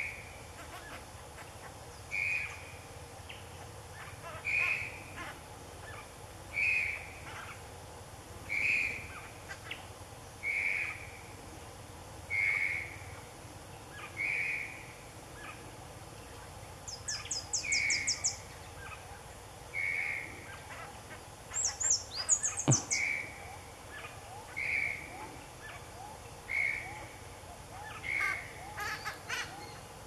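A bird repeating a single short call note about every two seconds. Partway through come a quick high rattle and a sharper, louder high call, with more high calls near the end.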